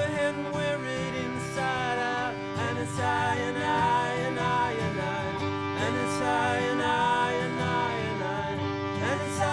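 Live band playing an instrumental passage: a bowed-string melody with sliding, swooping notes over plucked guitar and a steady held drone.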